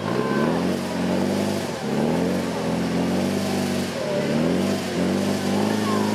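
Vintage car engine revving hard and falling back over and over, about once a second, as its rear wheels spin in deep mud on a muddy climb and the car struggles for grip.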